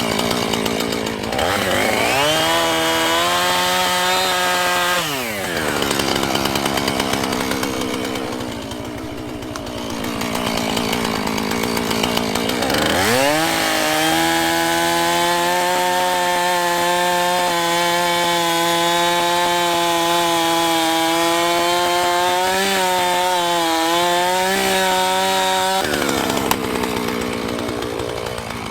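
Chainsaw revved to full throttle twice while cutting a fallen tree: a short burst of about three seconds, then a long run of about twelve seconds, dropping back to idle between and after. The pitch sags briefly under load near the end of the long run.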